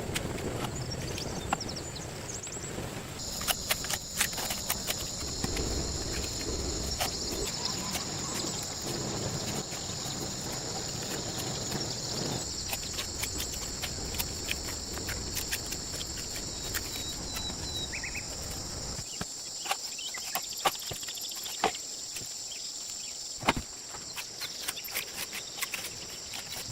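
A steady high-pitched insect chorus, with scattered sharp clicks and knocks.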